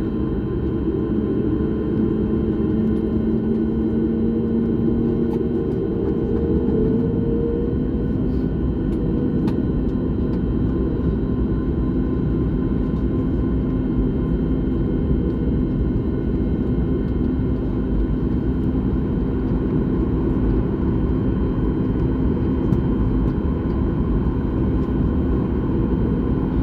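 Jet airliner cabin noise: a steady low engine rumble with a humming tone. About six seconds in the engine tones shift in pitch, then settle into one steady hum.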